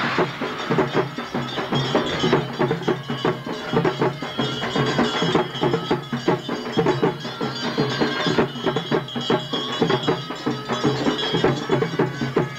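Traditional percussion music: drums struck in a fast, even rhythm, with a steady ringing metallic tone above them.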